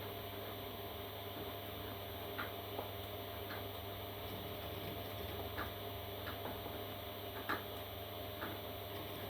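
Parrot chicks making faint, scattered short peeps over a steady low hum, about eight in all, the clearest a little past the middle.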